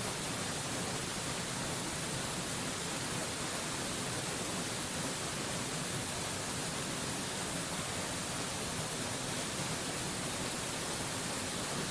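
Steady, unbroken rush of a waterfall heard as an even hiss, heaviest in the high end, with no changes.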